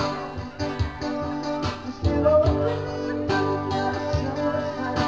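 Live band music: a guitar plays an instrumental passage between sung lines, over a steady beat.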